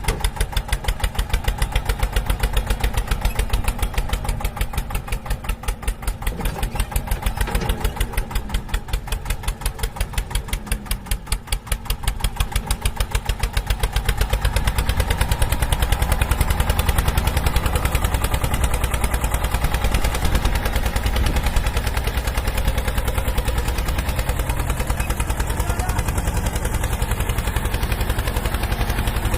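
Tractor-type engine running with a fast, even chugging beat that gets heavier about halfway through.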